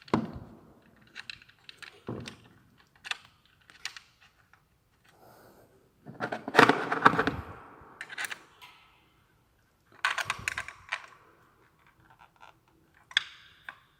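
Plastic and metal clicks and rattles of ignition coils being handled and refitted onto the spark plugs of a 2.0 Ecoboost petrol engine. There are two louder clattering bursts, about six and ten seconds in.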